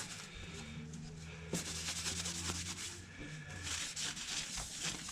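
A brush scrubbing dust and grit out of the inside of a Technics SL-1200 MK2 turntable, in repeated short scratchy strokes.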